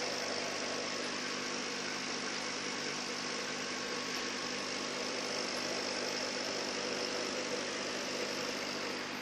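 Steady hum and hiss of a home aquarium's pump and filter running, even throughout.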